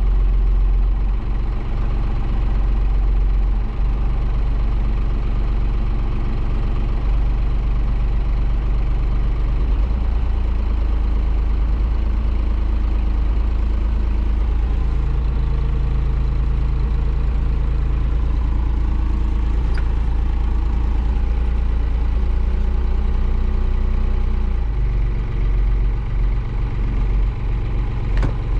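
John Deere 3140 tractor's diesel engine running steadily, its speed shifting a few times. The owner is not sure the injection timing is quite right.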